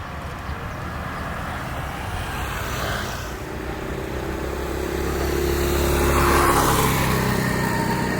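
Engine noise of a passing vehicle, building to its loudest about six seconds in, then easing off.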